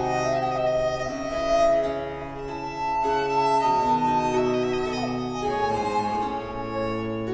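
Baroque chamber ensemble of recorder, baroque violin, baroque cello and harpsichord playing: held melody notes in the upper voices over sustained bass notes, changing about once a second.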